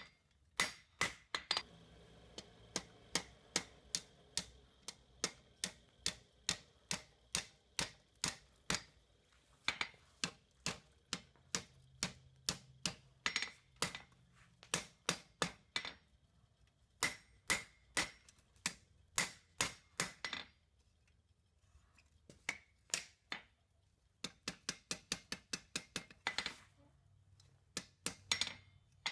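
Hand hammer blows on hot steel bar stock over an anvil, a steady run of about two ringing strikes a second. The blows stop for a second or two about two-thirds of the way through, then resume in a quicker flurry.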